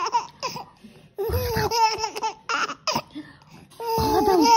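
A baby laughing in several high-pitched bouts, the longest near the end.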